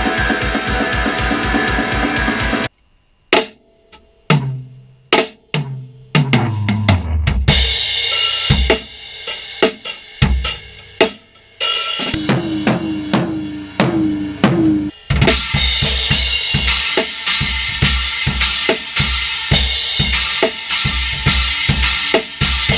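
Drum kit played in a recording studio. A steady groove cuts off about two and a half seconds in, then single tom hits step down in pitch, followed by cymbal crashes and scattered hits, and about fifteen seconds in the full kit picks up a steady beat again with a regular kick drum.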